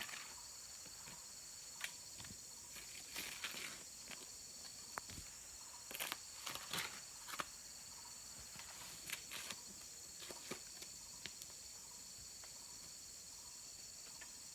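A steady, high-pitched chorus of insects, with scattered light clicks and knocks, most of them in the first half.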